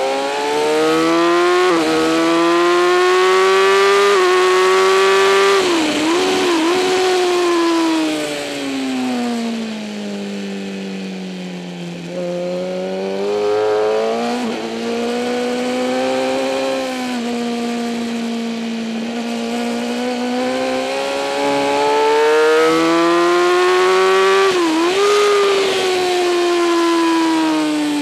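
2008 Kawasaki ZX-10R's inline-four engine at racing revs, accelerating hard with quick upshifts, then downshifting with quick blips about six seconds in and falling in revs through a corner. It pulls up through the gears again and downshifts once more near the end.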